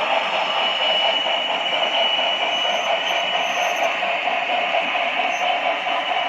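HO scale model train running on the layout: a steady mechanical whirr and rolling noise with a thin high whine through it.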